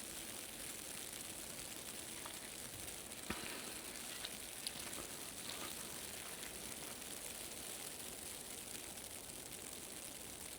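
Faint, steady hiss of wet snow and sleet falling, with a few soft ticks of flakes or drops landing.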